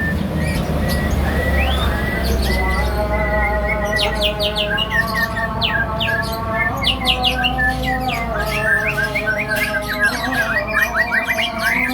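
Birds chirping and squawking, with sustained calls overlaid by many quick high chirps, over a low hum in the first half.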